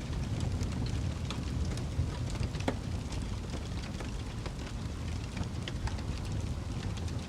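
Wood fire crackling: a steady low rumble with scattered sharp pops, one of the louder pops a little over two and a half seconds in.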